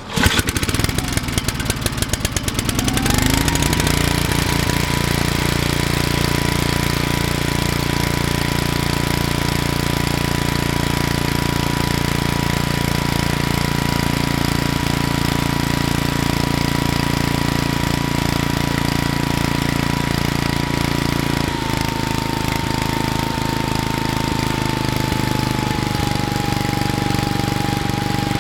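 Briggs & Stratton 7 hp small engine starting from cold on choke: it fires at once with rapid firing pulses, comes up to speed about three seconds in and runs steadily. Its speed dips slightly about 21 seconds in and eases a little lower near the end; a smooth, healthy run that the owner calls "runs perfect".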